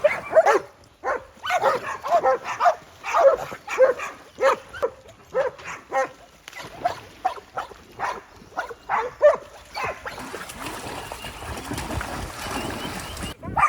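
Dogs barking over and over, short pitched barks about two a second, which stop about ten seconds in; a steady rushing noise follows and cuts off suddenly near the end.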